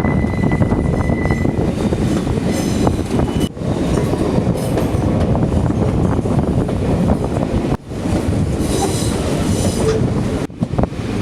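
Passenger train running on the rails: a steady rumble with rattling wheel clicks, a thin high wheel squeal in the first second, and further brief squeals later on.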